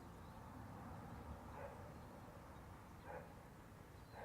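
Near silence with a dog barking faintly three times, about a second and a half apart.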